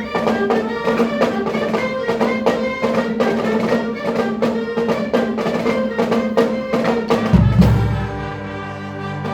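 Marching band music starting up: drums strike a steady beat over a held note, and lower brass notes come in near the end.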